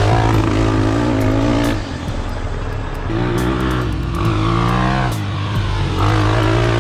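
450cc single-cylinder four-stroke off-road engine revving up and down under riding load, its pitch climbing and falling several times, with a sharp drop about two seconds in and a long climb near the middle.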